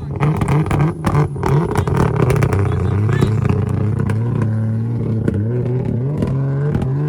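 Car engine running loud and being revved, with the pitch stepping up and down, over sharp pops and crowd voices.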